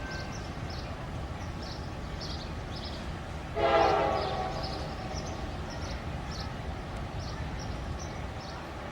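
Locomotive horn sounding one short blast about three and a half seconds in, fading away afterwards, over the steady low rumble of a train.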